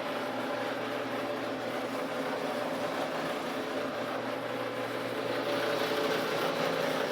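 Paint sprayer running steadily while a refrigerator is spray-painted: a constant hiss over a steady motor hum.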